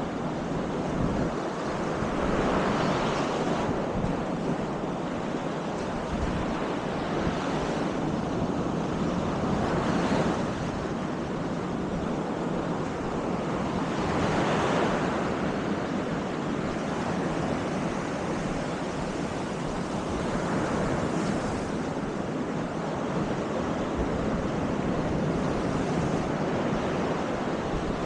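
Baltic Sea surf: a steady wash of waves on the beach, swelling every several seconds as a wave breaks, with wind buffeting the microphone.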